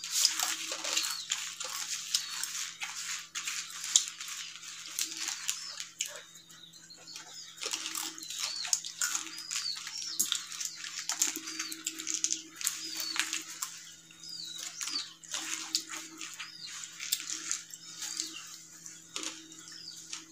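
Crunching and chewing of murukku, a crisp fried snack, with fingers scraping and crinkling on foil plates: thick runs of crackly crunches that thin out briefly about six seconds in and again near fourteen seconds. Short high chirps come now and then over a steady low hum.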